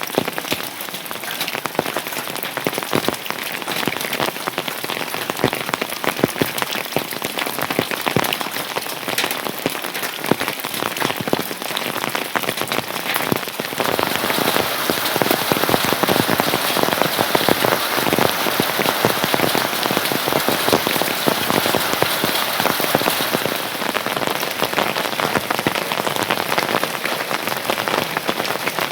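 Heavy rain falling close by: a dense, even spray of drops hitting a surface, growing louder about halfway through.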